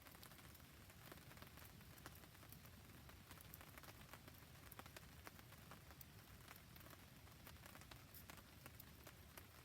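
Faint, steady rain falling, together with a wood campfire burning: many small sharp ticks over a low, even rumble.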